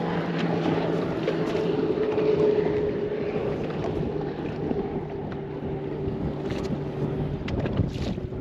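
Strong gusty wind buffeting the microphone on an open fishing boat, over a steady low hum, with a few small knocks near the end.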